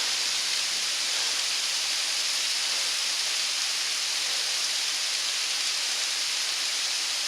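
Heavy thunderstorm rain pouring down: a steady, even hiss with no thunder claps.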